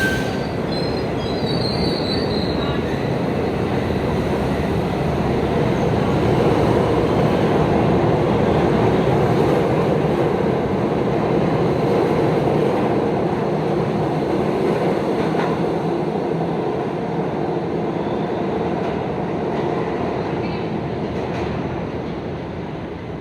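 New York City subway train running on the rails: a steady rumble of wheels that swells and then fades near the end, with a brief high wheel squeal a second or two in.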